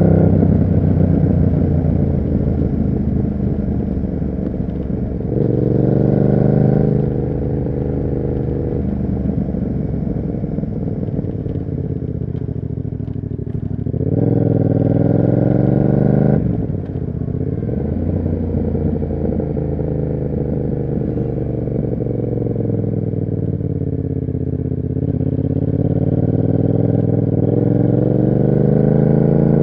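Yamaha MT-07's parallel-twin engine through an SC Project aftermarket exhaust while riding. The engine note rises briefly under throttle about five seconds in and again about fourteen seconds in, drops suddenly about sixteen seconds in, then climbs slowly again near the end.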